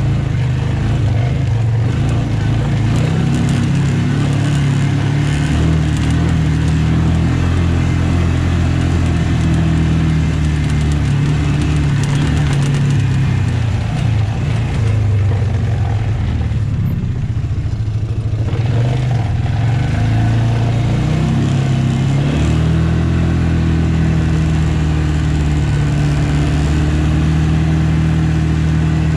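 Farm tractor's diesel engine running steadily. Its note dips and wavers a little past the middle, then steps back up about three-quarters of the way through.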